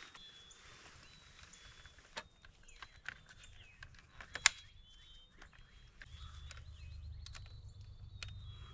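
Songbirds calling in woodland: short, thin whistled notes, some sliding down in pitch, with scattered sharp clicks and snaps, the loudest about halfway through. A low steady rumble comes in about six seconds in.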